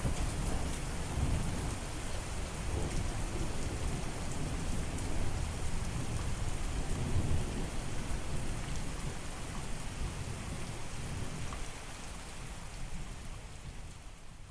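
Steady rain falling, with a low rolling rumble of thunder underneath. The sound fades gradually over the last few seconds.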